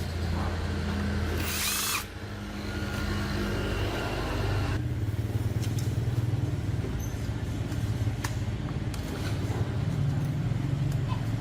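Steady low hum of a small motor or power tool running, with a brief burst of hiss about two seconds in and a few light ticks.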